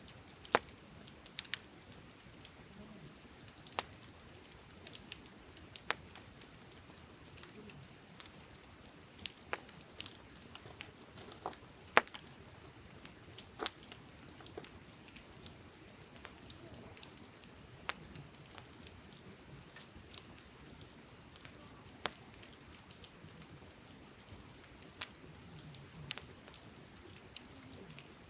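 Wood campfire crackling, with irregular sharp pops and snaps at uneven intervals over a faint steady hiss; one of the loudest pops comes near the middle.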